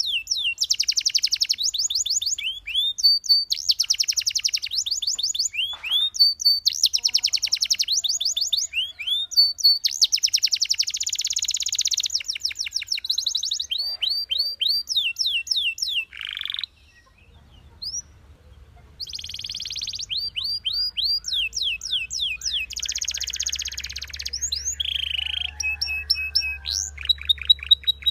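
Belgian canary singing: series of quick, falling whistled notes alternating with fast, buzzing trills, with a short pause a little past halfway.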